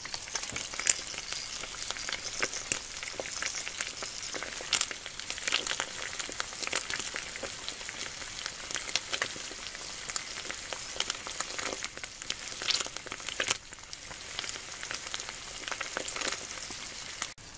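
Marinated eel fillets frying in hot oil in a stainless steel pan: a steady sizzle with frequent small pops and crackles.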